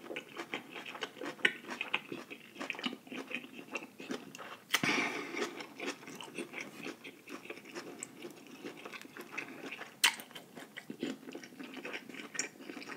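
Close-miked chewing of a seafood boil: wet mouth sounds and small crunches, with a sharper click about five seconds in and again about ten seconds in.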